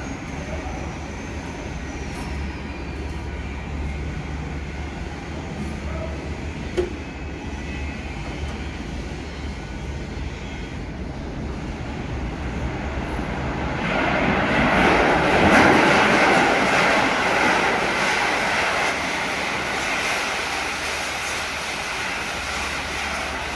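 Continuous mechanical rumble with a low steady hum, swelling much louder about two thirds of the way through and then easing off.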